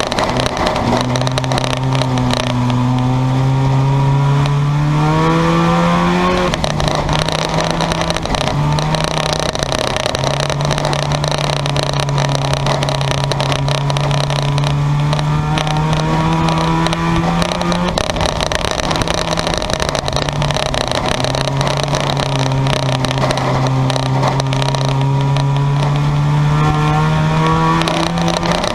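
Race car engines running laps on an oval track, loud and continuous. The main engine note climbs for several seconds and then drops off sharply, as the throttle is lifted for a turn, three times at about eleven-second intervals.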